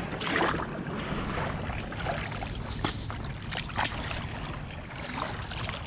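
Choppy river water sloshing and lapping in the shallows along the bank, as a steady noisy wash, with a few brief sharper sounds about three to four seconds in.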